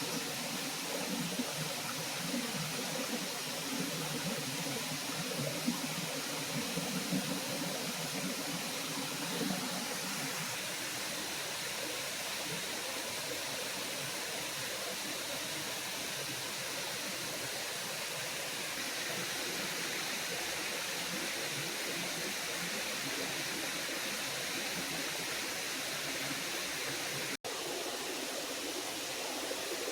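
Small forest waterfall and stream rushing steadily, with a few light knocks over the first ten seconds. The sound cuts out for an instant near the end.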